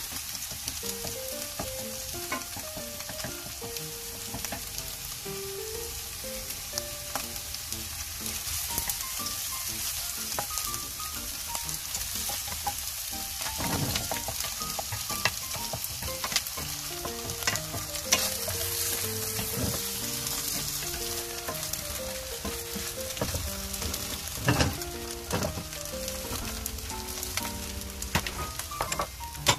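Salted egg yolk and fried tofu cubes sizzling in a wok as they are stirred and scraped with a wooden spatula. A few louder clacks of the spatula against the pan come through the steady sizzle.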